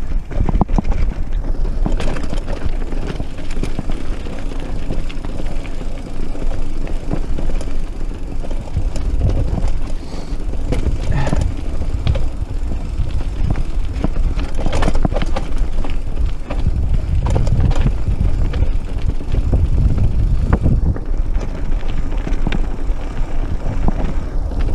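Mountain bike riding down a rough dirt track: steady wind rumble on the action camera's microphone, with the tyres on loose ground and the bike rattling and knocking over bumps.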